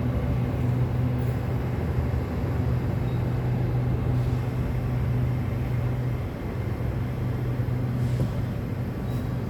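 The inside of an electric commuter train carriage while it runs: a steady low hum over a constant rumble.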